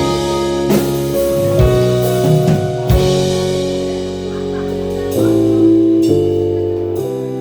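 A live band plays an instrumental passage: a drum kit keeps time under keyboard and bass chords. The chords change every one to two seconds.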